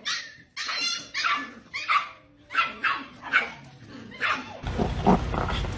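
A dog giving a quick run of short yelping barks, about two a second. Near the end these give way to a steady low hum.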